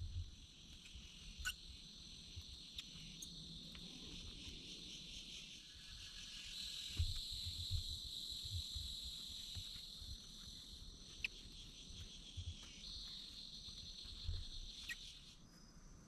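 Rainforest insect chorus: a steady high-pitched buzzing that grows louder about six seconds in and fades near the end. Scattered soft knocks and a few sharp clicks sound beneath it.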